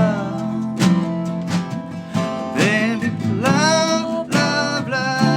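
Live band music: acoustic guitar strummed on a steady beat under a sung melody.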